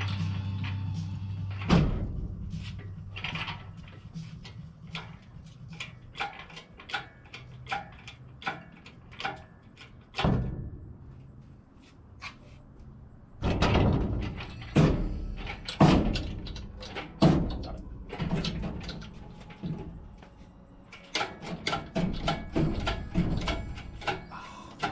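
Series of sharp knocks and clanks at irregular intervals, heaviest about halfway through, over a low steady rumble and some background music.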